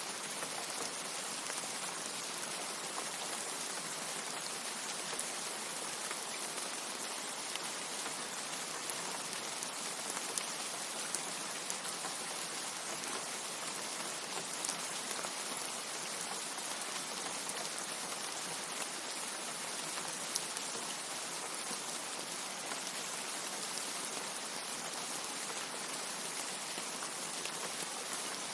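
Steady rain: a dense, even hiss with scattered faint drop ticks, and no thunder.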